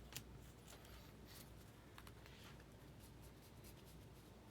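Near silence with a few faint flicks and soft slides of baseball trading cards being handled and flipped through, one around a second in and a couple around two seconds in.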